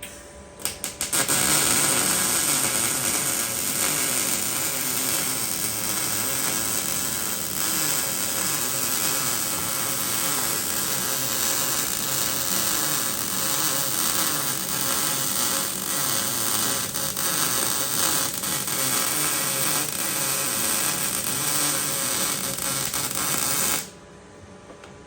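MIG welding arc from an Everlast Storm 215C running 0.030 wire with 75/25 gas on 240 volts, at its factory setting for 1/8-inch steel, which the welder finds a little on the cool side. The arc sputters on twice, then runs as one steady, even buzz for about 22 seconds and cuts off sharply near the end.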